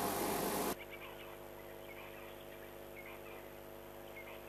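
Low electrical hum in the audio feed. Under a second in, a hiss cuts off suddenly, and a few faint, brief chirps sound over the hum.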